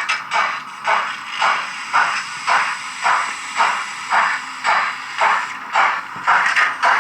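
Roco H0 model DR class 01 steam locomotive's digital sound decoder playing steam exhaust chuffs through the model's small speaker, a steady rhythm of about two hissing chuffs a second as the locomotive runs.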